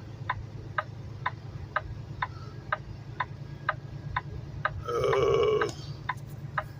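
Semi truck's turn signal clicking evenly about twice a second over the steady low hum of the running engine. About five seconds in, a brief loud throaty sound lasts under a second.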